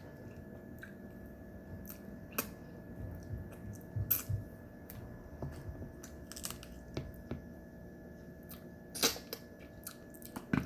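A person eating at close range: chewing, with scattered small clicks and taps and a few louder clicks about nine seconds in, over a faint steady hum.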